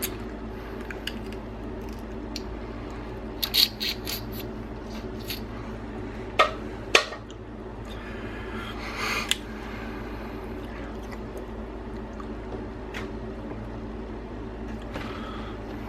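Boiled crab being cracked and picked apart by hand: scattered sharp cracks and snaps of shell, a few in quick succession, with a short wet rustle partway through, over a steady low hum.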